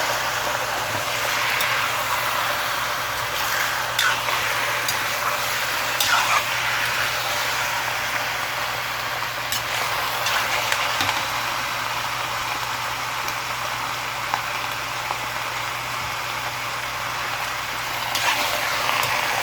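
Chicken pieces frying in a pan with sautéed garlic and onion: a steady sizzling hiss, broken by a few sharp clicks. A low, steady hum runs underneath.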